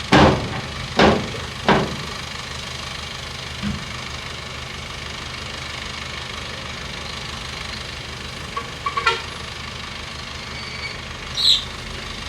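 Bulldozer's diesel engine running steadily, with three sharp knocks in the first two seconds and a few shorter sounds later on.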